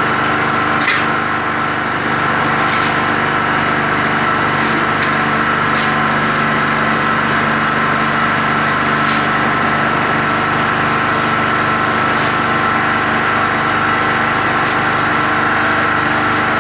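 Skif BSM 200 concrete mixer running steadily, its 550 W electric motor turning the drum: an even mechanical drone with several constant whining tones and a few faint clicks.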